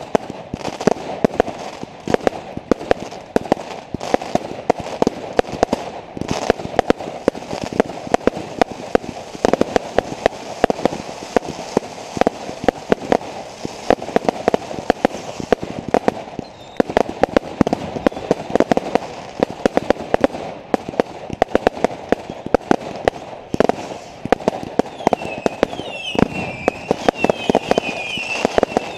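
Fireworks going off in a continuous barrage of sharp cracks and bangs, many a second, with a few short high glides in pitch near the end.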